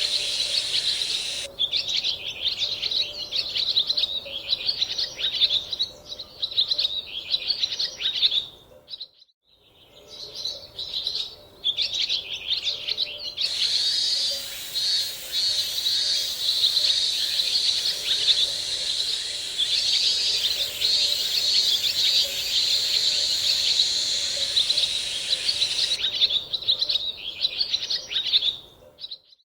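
Birds chirping in a dense, rapid twittering that breaks off briefly about nine seconds in and again near the end.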